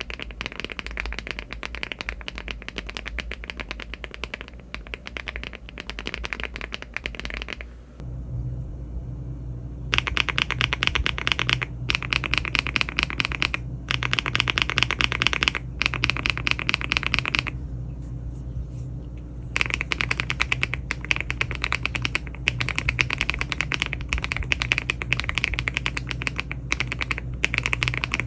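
Fast typing on a LEOBOG Hi75 aluminium mechanical keyboard with Cherry-profile keycaps. It is first fitted with HMX Jammy switches, then, after a break of about two seconds, with HMX Lotus switches. The keystrokes come as a dense clatter in runs, with short gaps between them.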